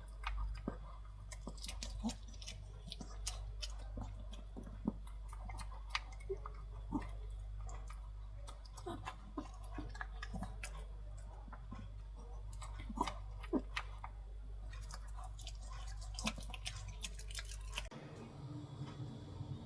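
Irregular small clicks and crunches over a steady low hum, which cut off near the end.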